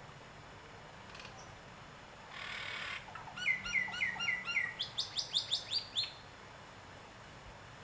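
A bird singing: a short rasping hiss, then a run of about five quick falling whistled notes that turns into a faster series of higher, sharper notes, about three seconds of song in all.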